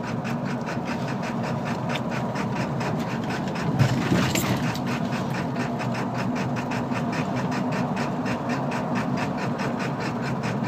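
A 7.3-litre Power Stroke V8 turbo-diesel in a 1999 Ford F-250 running rough and lopey, with an even pulsing beat, as the truck coasts at low speed. The owner was told this rough idle comes from a burnt wiring harness under the valve cover sending the signal to the wrong injector. There is one brief louder thump about four seconds in.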